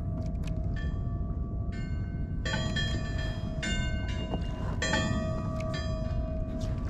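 Bells ringing with several irregular strikes, each ringing out for about a second, over a steady low rumble of wind and water.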